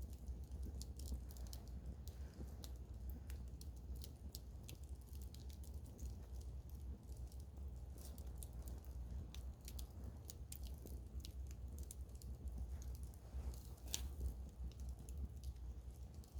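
Wood campfire crackling: frequent, irregular small snaps and pops, with a sharper pop about 14 seconds in, over a low steady rumble.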